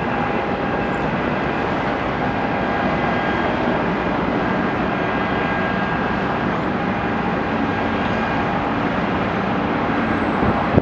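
Steady mechanical engine noise with a faint constant whine.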